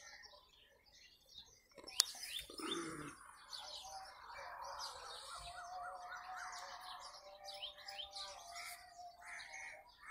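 Small birds chirping and twittering faintly, many short calls one after another with a brief warbling trill midway. A single sharp click about two seconds in.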